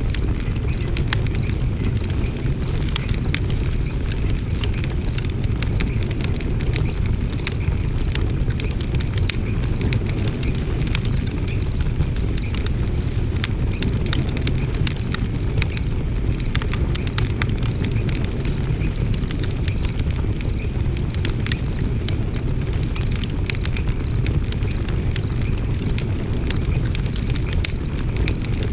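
Wood fire burning in a fire pit: a steady low rumble of flames with frequent sharp crackles and pops.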